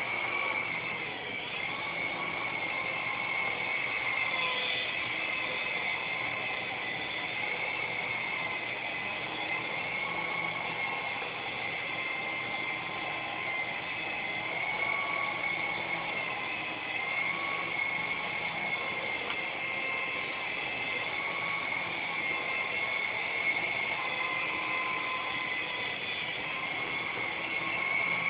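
Syma S107G coaxial micro RC helicopter's small electric motors and rotors running: a steady high whine whose pitch wavers slightly up and down.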